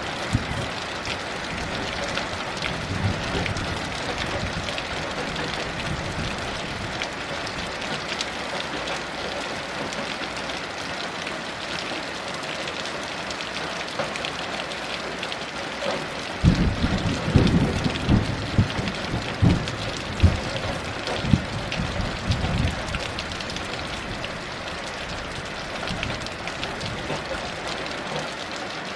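Heavy rain falling steadily, with a rumble of thunder about halfway through that surges several times over some six seconds before dying back into the rain.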